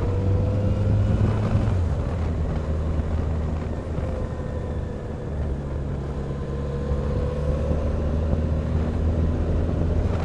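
Motorcycle engine running at a steady cruise with road noise, its pitch easing down slightly about two seconds in and rising again near the end.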